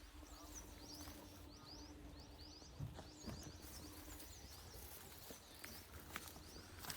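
Faint outdoor ambience: small birds chirping in quick, repeated high chirps for the first few seconds, over a faint steady hum and low rumble, with a few soft clicks.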